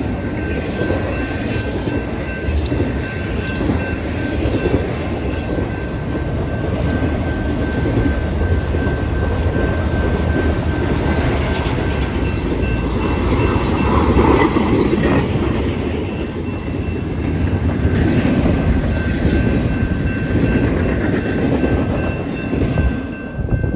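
Freight train rolling by at track side: a loud, steady rumble and rattle of wheels on rail with clickety-clack, with a thin, steady high ringing above it. The sound falls away right at the end.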